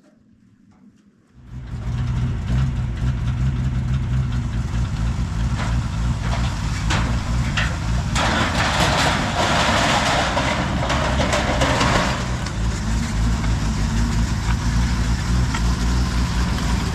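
A heavy vehicle engine running steadily with a deep, loud hum; it comes in suddenly about a second and a half in.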